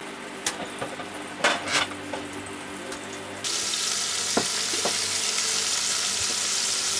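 Shrimp frying in a pan: a few clinks of a utensil, then a loud, steady sizzle that starts suddenly about halfway through.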